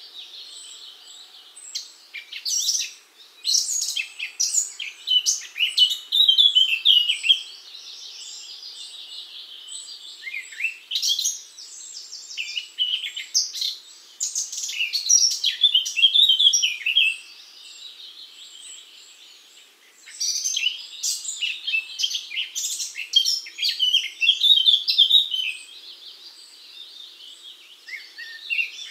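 Songbirds chirping and twittering in quick, high, gliding phrases. The song comes in bursts of several seconds with brief quieter gaps between them.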